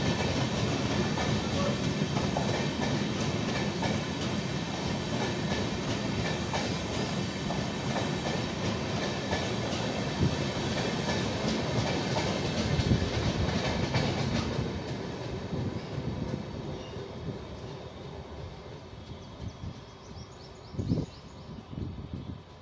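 Express train of LHB passenger coaches running past at speed, wheels clattering over the rail joints. The noise drops away about two-thirds through, leaving a quieter background with a few thumps near the end.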